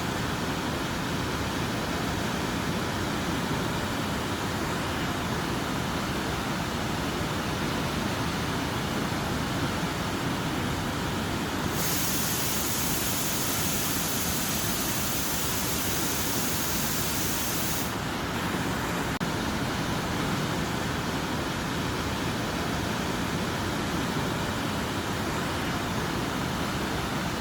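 Steady rain, a constant even hiss. About twelve seconds in, the sound turns brighter and hissier for about six seconds, starting and stopping abruptly.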